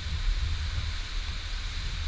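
Hurricane-force wind blowing hard: a steady hiss over a heavy, uneven low rumble of gusts buffeting the microphone.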